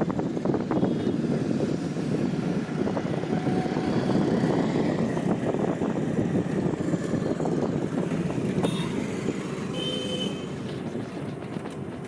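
Steady road and traffic noise from a motorbike ride, with wind rushing on the microphone and a few short high beeps near the end.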